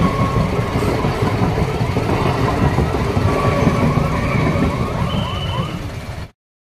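Road noise on a busy road, a motorcycle's engine and wind rumble with other vehicles' horns sounding briefly. The sound cuts off suddenly near the end.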